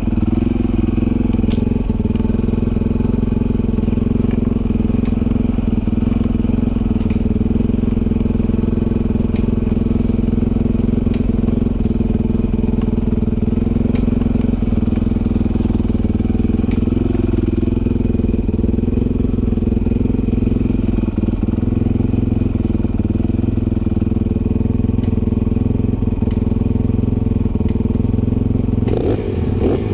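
Dirt bike engine running at a steady, nearly unchanging speed, with a few sharp clicks; the sound turns uneven near the end.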